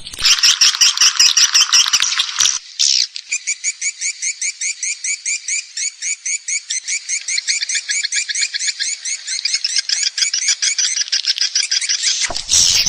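Swiftlet call recording used to lure edible-nest swiftlets: a dense burst of twittering chatter for about two and a half seconds, then a long run of rapid, evenly repeated chirps, about six a second, and dense chatter again near the end.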